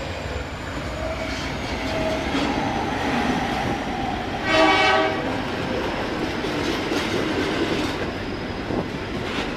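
Train rolling past on the rails, with one short horn blast about halfway through.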